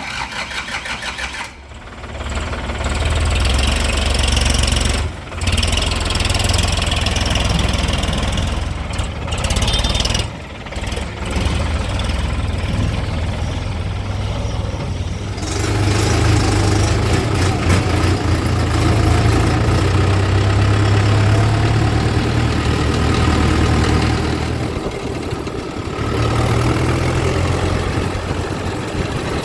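Heavy diesel engine running steadily, with a deep, low throb and brief dips about five and ten seconds in.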